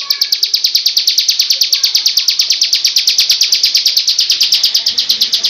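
Bar-winged prinia (ciblek) singing a long, fast, unbroken trill of sharp high notes, about a dozen a second.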